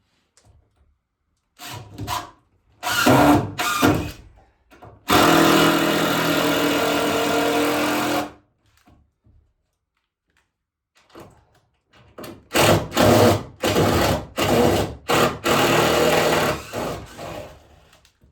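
Power drill running in short trigger bursts, with one longer run of about three seconds, then another quick string of short bursts.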